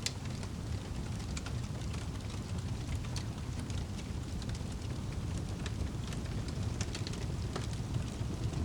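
Wood fire crackling in a fireplace: scattered, irregular pops and snaps over a steady low rumble of the flames.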